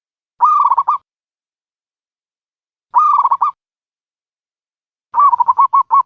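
Dove calling: two short cooing phrases of a few quick pulses, one near the start and one about three seconds in, then a fast run of short, evenly spaced coos starting about five seconds in.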